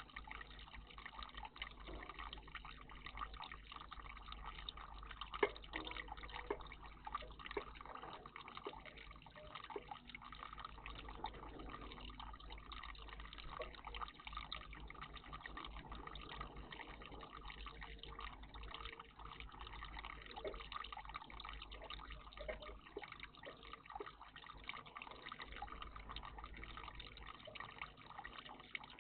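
Water trickling and dripping steadily in a bird bath, with many small drips and splashes.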